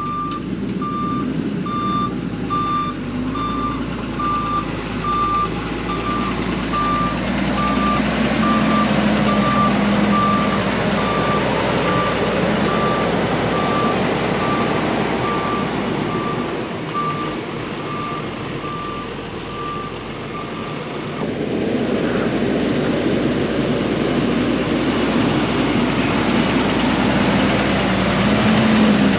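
A loaded dump truck reversing, its backup alarm beeping steadily over the diesel engine until the alarm stops about two-thirds of the way through; the engine then runs louder as the truck works while sinking in loose sand.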